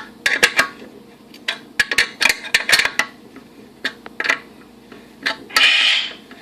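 Irregular metallic clinks and clicks of tools and bolt hardware against the grill body as a replacement burner is fastened in. There is a short harsh rasp near the end.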